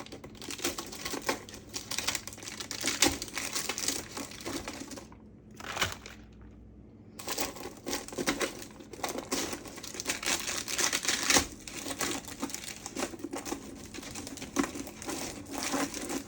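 A bag crinkling and rustling in quick, dense crackles as it is handled and filled with sugared pecans, with a brief lull about five seconds in.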